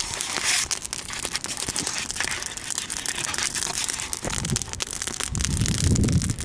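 Wood bonfire crackling, with dense sharp pops and snaps. A low rumble joins about five seconds in.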